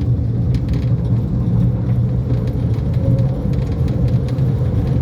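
Mail Rail's small battery-electric train running through its narrow tunnel: a steady low rumble of wheels on track, with a faint steady tone and light scattered clicks.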